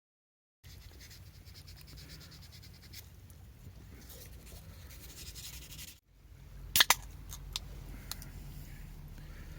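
Faint scraping, then two sharp clicks close together and a few lighter ticks.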